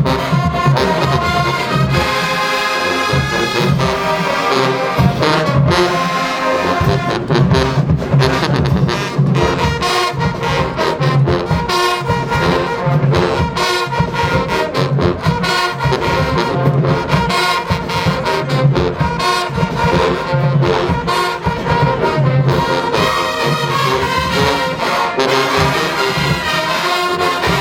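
Marching band playing loudly, a full brass section carrying the tune over a steady drum beat.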